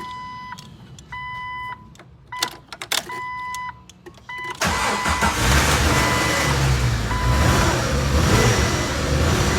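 A Jeep Wrangler's dashboard warning chime beeps about once a second, with a few clicks from inside the cab. About four and a half seconds in, the engine fires up after a fuel pump replacement and settles into a slightly rough idle, with the chime still going faintly.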